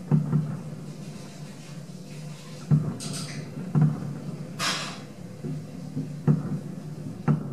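Distant fireworks shells bursting over the bay: a series of about seven low booms at uneven intervals over a steady rumble, with two short hisses about three and five seconds in.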